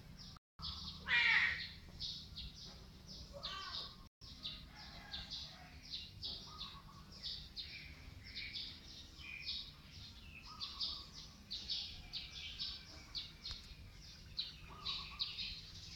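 Small birds chirping over and over over a faint steady low hum, with one louder wavering call about a second in.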